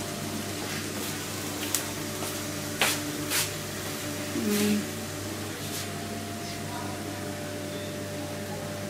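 Chopped greens sizzling steadily in a wok over a gas flame, with a few sharp clicks about two to three and a half seconds in.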